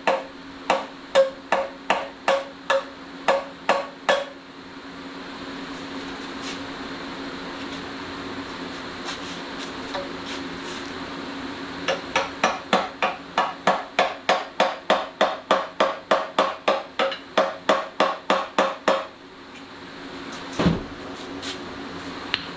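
Hammer blows on metal, each with a short ring. A run of about eight strikes, roughly two a second, ends about four seconds in. After a pause a faster run of about twenty strikes comes, roughly three a second, and one duller thump follows near the end.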